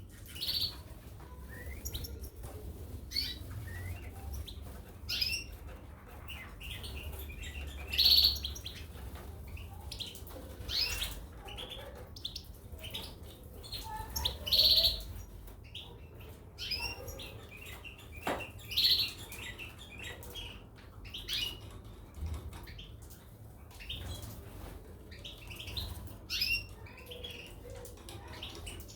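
Caged European goldfinches and canaries chirping in short, scattered calls, a few much louder than the rest, over a low steady hum.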